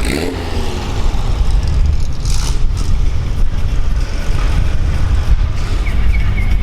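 Vehicle engine running with a loud, steady deep rumble, and a short hiss about two and a half seconds in.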